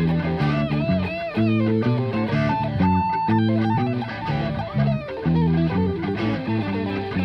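Blues band playing an instrumental break: electric guitar lead with bent, wavering notes and a long held note about three seconds in, over bass guitar and rhythm guitar.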